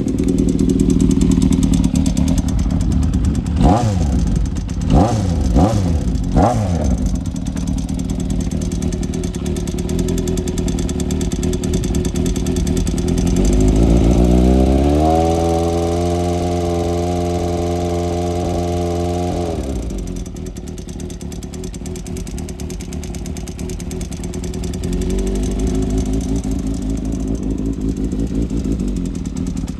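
Honda CBX550F air-cooled inline-four motorcycle engine running. It is blipped several times a few seconds in, then accelerates to a steady higher pitch held for about five seconds, drops back about twenty seconds in, and picks up again near the end.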